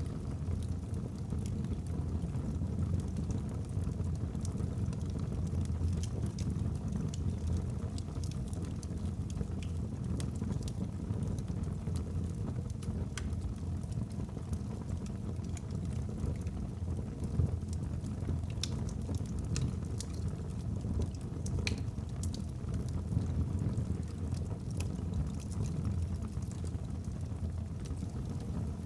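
Wood fire burning in a fireplace: a steady low rumble of flames with many small crackles and pops from the burning logs scattered throughout.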